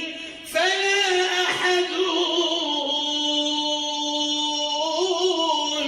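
A man's solo voice chanting an Islamic ibtihal, a devotional supplication, in long melismatic phrases. After a short break about half a second in, he holds one long note through the middle of the phrase.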